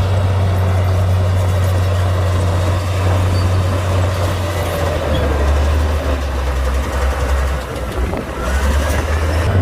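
Komatsu D58P bulldozer's diesel engine running steadily; its low note drops about halfway through and comes back up near the end.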